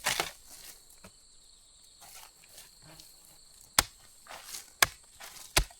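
Three sharp knocks about a second apart in the second half, over steady high-pitched insect buzzing.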